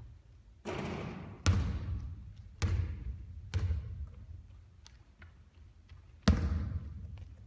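A basketball hitting a hard surface during three-point shooting practice: about five sharp thuds, each with an echoing tail. The loudest comes about six seconds in.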